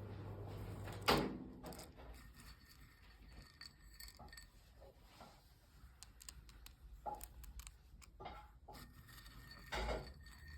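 Kitchen preparation handling sounds: a low hum stops with a loud knock about a second in, followed by scattered light clinks and taps of utensils and containers and another knock near the end.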